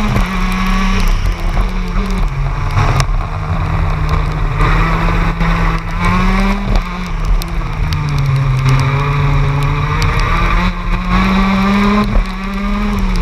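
TM K9ES 125cc two-stroke shifter kart engine heard onboard, revving continuously, its pitch rising and falling with several sudden step drops in revs.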